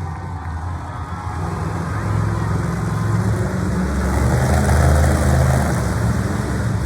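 Monster truck's big engine running and revving, its deep drone building up through the middle and easing off slightly near the end, with a noisy arena haze underneath.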